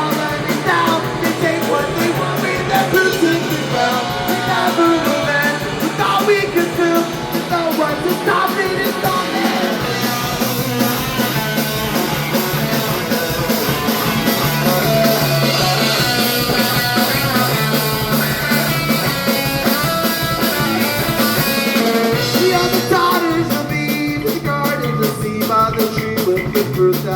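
Surf-punk band playing live: electric guitars, bass and drum kit driving through an instrumental passage of the song, with the drums and cymbals growing busier near the end.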